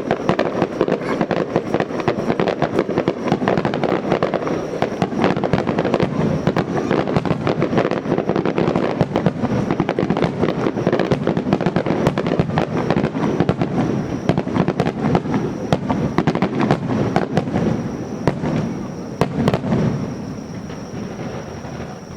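Fireworks finale: a dense, unbroken barrage of bursts and crackling shells, with a few last big bangs near the end before it dies away to fading echo.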